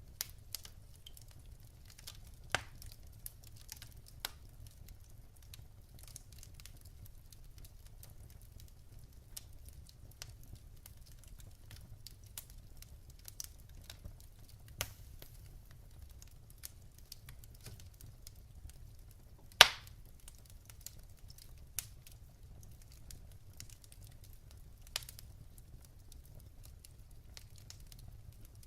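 Wood fire burning in a fireplace, logs crackling with scattered sharp pops over a low steady rumble; one pop about two-thirds of the way through is much louder than the rest.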